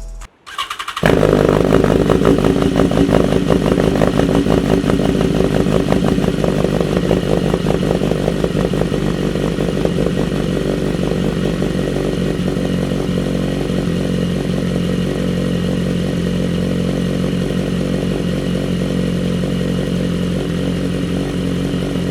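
2011 BMW S1000RR's inline-four engine firing up on a cold start about a second in, through an M4 GP Series exhaust and DanMoto headers. It runs loud and a little uneven at first, then settles into a steady idle.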